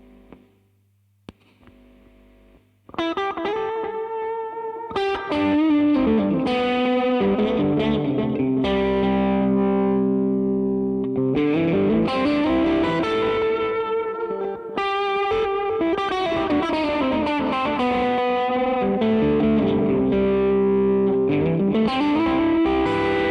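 Electric guitar through a DemonFX Reverb & Delay Workstation pedal, playing distorted, sustained chords and notes with reverb and delay tails. It is quiet at first and comes in loud about three seconds in. Some notes glide up and down in pitch.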